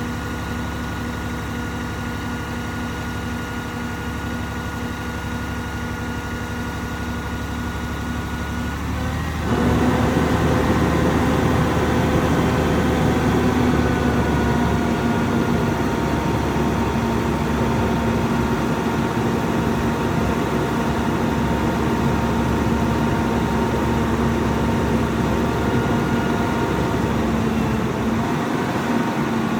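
2012 Peterbilt 337's diesel engine running steadily at idle. About nine seconds in it suddenly gets louder and busier, and stays that way.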